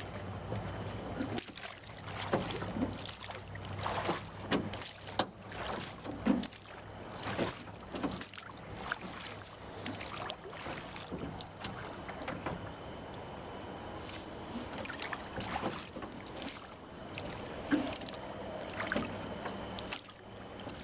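Small boat moving through floodwater, with irregular splashes and knocks about every second.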